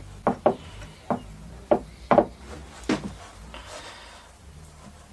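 Six or so sharp knocks and taps in the first three seconds, with the dull wooden ring of hard objects being handled and set down, then faint rubbing.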